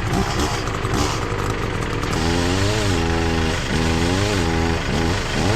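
Chainsaw engine being revved up and let back down, about once a second, from a little way in.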